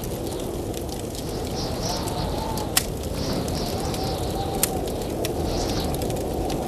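Blizzard wind blowing steadily with a low, wavering whistle, over a wood fire crackling with scattered sharp pops; the two loudest pops come about three seconds in and a couple of seconds later.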